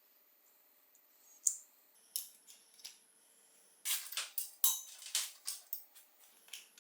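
Sharp metallic clicks and light rattles of a bicycle brake cable and its small metal fittings being worked loose and handled. There is a single click about a second and a half in, then a busy run of quick clicks from about four to six seconds.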